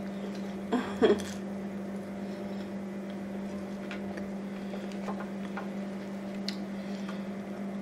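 Close-miked chewing and wet mouth sounds from eating French fries, with a short smack about a second in, over a steady low electrical hum.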